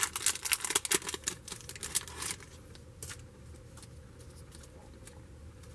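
Stiff cardboard trading cards being flipped through by hand: quick papery clicks and snaps for about two seconds, then a lone flick or two before it goes quiet.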